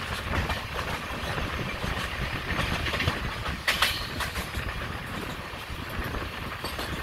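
Passenger train coach running along the track: a steady rumble and rattle of wheels on rails, with a louder sharp clack a little under four seconds in.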